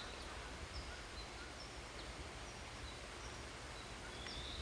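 Quiet outdoor ambience with a constant low rumble and faint, short, high bird chirps every second or so.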